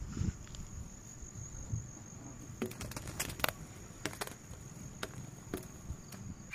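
An insect trills steadily at a high pitch in the field, over a low rumble of wind, with a few sharp clicks scattered throughout.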